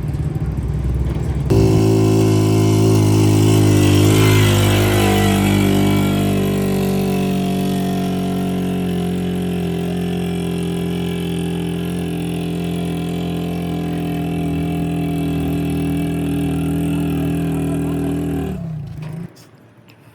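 Heavy-duty truck engine running at a steady idle, with a slight rise in speed near the start. It stops abruptly about a second before the end.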